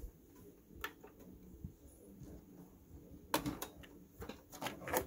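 Light clicks and knocks from handling a Sony MHC-1200 stereo system: one click about a second in, then a quick run of clicks in the second half.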